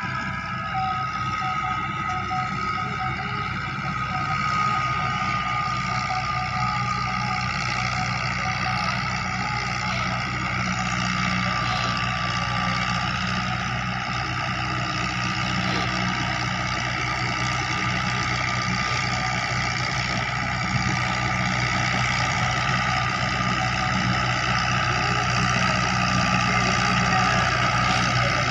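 Fiat 640 tractor's diesel engine running steadily, with a steady high whine over it, growing slightly louder toward the end.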